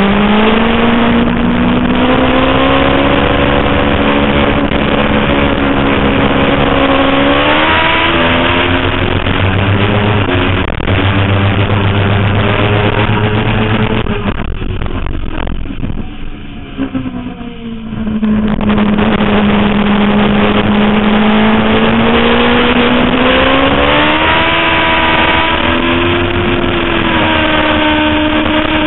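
Suzuki GSX-R 750 inline-four engine being ridden hard on a race track, its pitch climbing and falling as the rider works the throttle through the gears. About halfway through the throttle shuts and the engine note drops and quietens for a few seconds, as when braking into a corner, then it pulls hard again.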